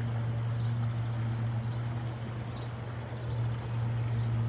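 Small birds chirping, short high calls every half second or so, over a steady low hum.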